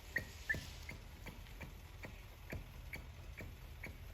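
New rubber primer bulb on a Shindaiwa hedge trimmer being pressed over and over, each press a short, faint squeaky click, a little under three a second: the carburettor being primed, drawing fuel into the system.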